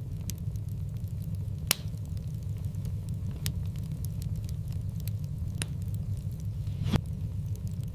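Wood fire in a fireplace burning with a steady low rumble, crackling with scattered sharp pops, the loudest about two seconds in and near the end.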